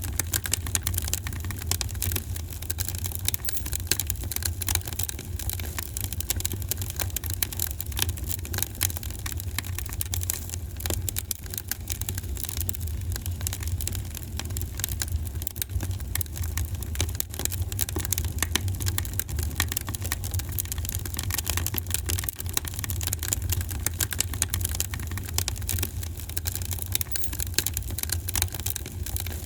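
Fireplace fire crackling: many small, irregular crackles over a steady low rumble.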